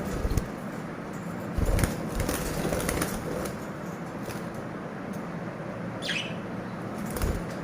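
Lovebirds fluttering their wings, with a few dull thumps, and one short call falling in pitch about six seconds in.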